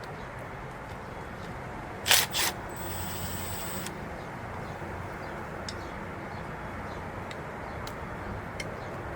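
Two quick, sharp bursts of noise about a third of a second apart, over a steady low background hum.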